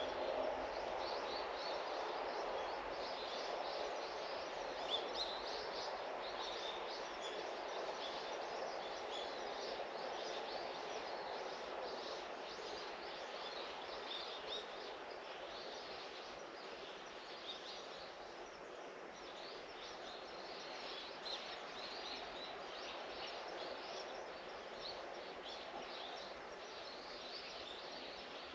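Small birds chirping over and over over a steady low background hiss that slowly fades.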